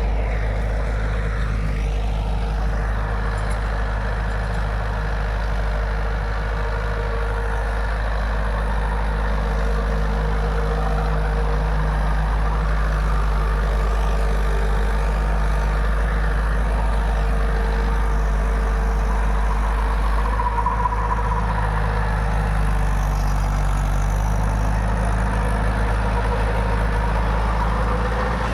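Mahindra 475 DI tractor's diesel engine running steadily at an even pitch and level.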